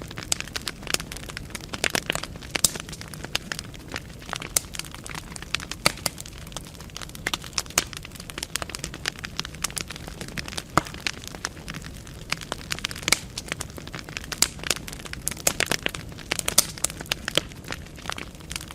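Wood fire burning in a fireplace, the logs crackling and popping in irregular sharp snaps over a low steady rumble of the flames.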